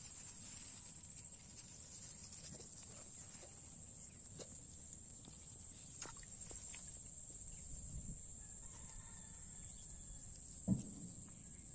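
Outdoor ambience: a steady high-pitched drone with scattered small clicks and taps, and one short low thump near the end.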